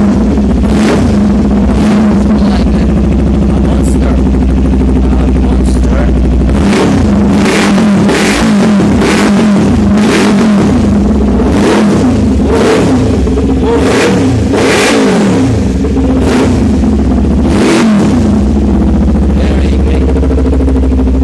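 Kawasaki Ninja 400's parallel-twin engine through an aftermarket SC-Project exhaust, idling steadily, then revved in repeated quick throttle blips for about twelve seconds, the pitch rising and falling with each blip, before it settles back to idle near the end.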